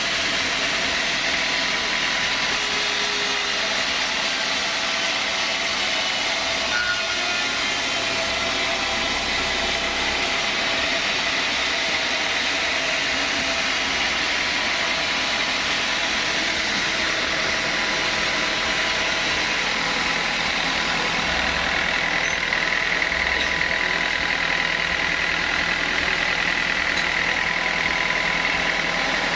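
Sawmill saw machinery running steadily, a constant machine noise with a steady whine.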